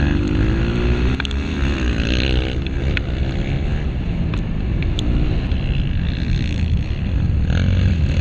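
Honda CRF230's single-cylinder four-stroke engine running hard, its revs rising and falling as the dirt bike is ridden around a motocross track, heard from an onboard camera with some wind noise. A few sharp clicks cut through it.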